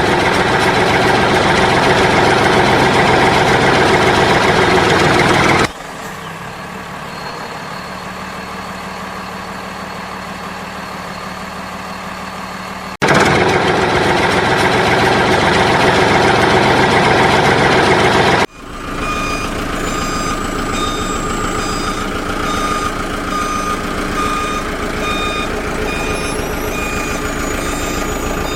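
Truck engine sound that cuts suddenly between loud and quieter stretches, then, from about two-thirds of the way in, a steady run of repeated electronic beeps over the engine, like reversing beeps.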